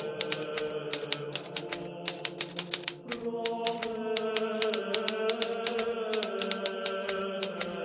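Hermes Baby portable typewriter being typed on steadily, a fast run of sharp keystroke clacks, several a second. Underneath is soft sustained background music, whose chord changes about three seconds in.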